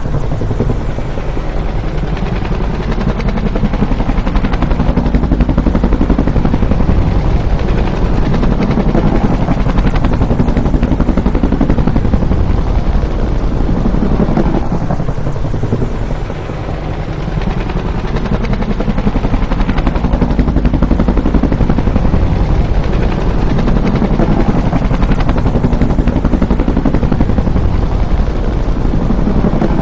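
Bell UH-1 "Huey" helicopter, its rotor beating steadily as it passes by. Loudness and pitch rise and fall in slow sweeps, with a dip about halfway through.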